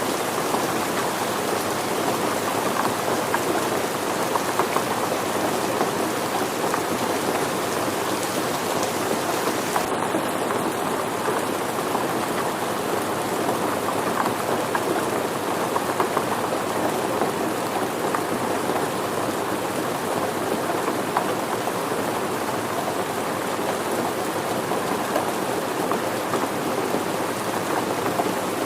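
Steady rain falling on surfaces: a dense, even hiss of countless drops that keeps up without a break. The highest part of the hiss dips slightly about ten seconds in.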